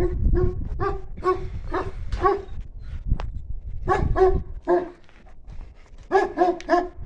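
A large dog barking in short runs of deep barks, roughly two a second, with brief pauses between the runs.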